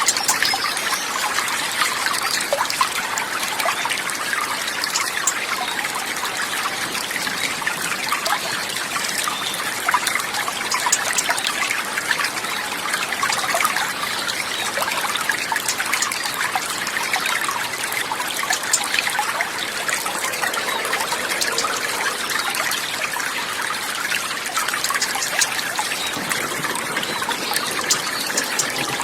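Water trickling and running steadily, a small stream or rivulet with a fine, even splashing.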